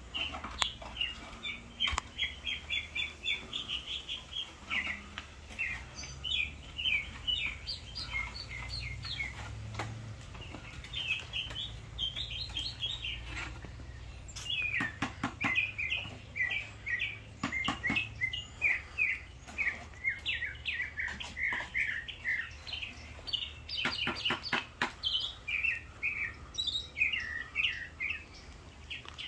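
Songbirds singing: a dense, continuous run of rapid, repeated high chirping notes. A few short clusters of sharp clicks come in about halfway through and again near the end, over a low steady rumble.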